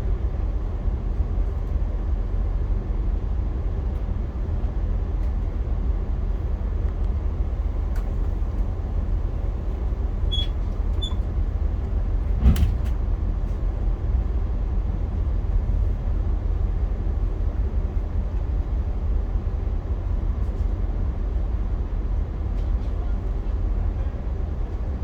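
Via Rail passenger train in motion, heard as a steady low rumble, with a few light clicks and one sharp knock about halfway through.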